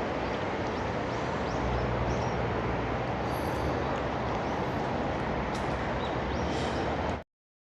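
Steady rushing outdoor noise, with a few faint short high chirps over it, that cuts off abruptly to dead silence about seven seconds in.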